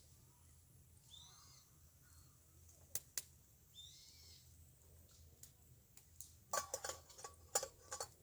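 A bird calls twice, faint and high. Near the end comes a quick run of sharp clicks and clinks, the loudest sound here.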